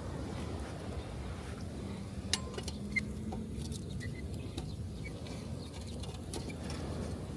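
Wood fire crackling with scattered small pops, two sharper ones about two and three seconds in, over a steady low wash of waves.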